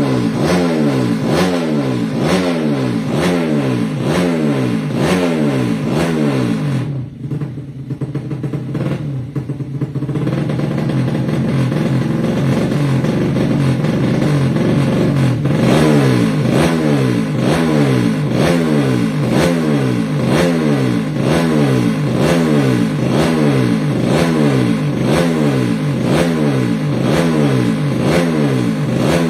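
Yamaha Jupiter Z motorcycle's single-cylinder four-stroke engine, bored up to 200cc, being revved hard over and over, its pitch climbing and dropping back with each blip. About seven seconds in it drops quieter for a few seconds, then revs up again.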